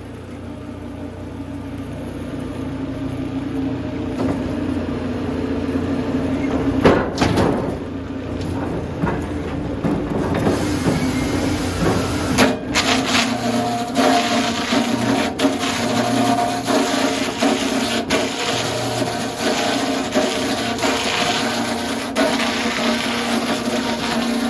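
Sawmill machinery running with a steady low hum that builds over the first few seconds; about ten seconds in, a hiss of wood being cut or stripped joins it, with occasional sharp clicks.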